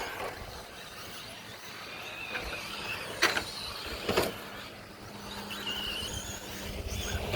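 Electric 1/10 scale 2WD short course RC trucks running on a clay track, their motors whining up and down in pitch, with two sharp knocks about three and four seconds in.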